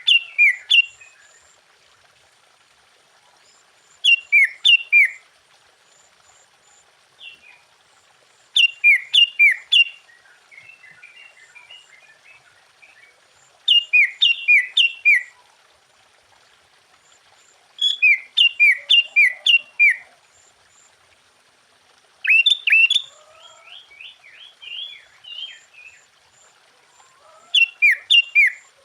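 Sooty-headed bulbul singing loudly. Each phrase is a quick run of whistled notes that slide downward, and the phrase repeats about every four to five seconds. Softer chattering notes fill some of the gaps.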